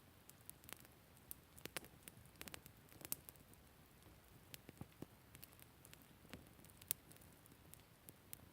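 Wood campfire crackling: faint, irregular sharp pops and snaps over a low hiss, a few of them coming in quick clusters.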